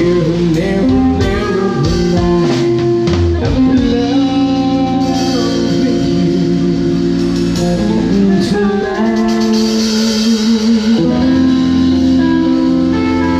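A band playing a pop song: guitar and drum kit, with a sung vocal line holding and sliding between long notes.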